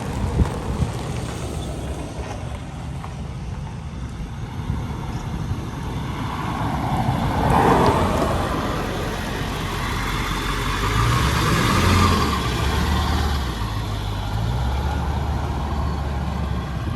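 Ford 7.3L Powerstroke V8 turbo-diesel truck engine running, with two sharp knocks right at the start, a swell of noise about halfway through, and the low engine note shifting up and down near the end.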